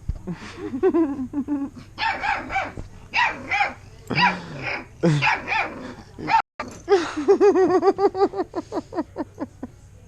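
Bernese Mountain Dog puppies barking and yipping in play: high-pitched yaps in short clusters, then a fast run of short whiny yelps, about seven a second, that fades out near the end.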